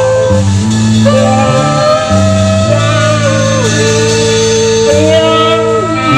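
Live band playing: a long, held melody line that slides between notes over a steady bass line.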